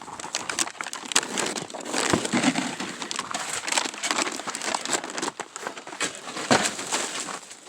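Irregular crunching and crackling, as of footsteps breaking through ice-crusted ground, with a few sharper snaps along the way.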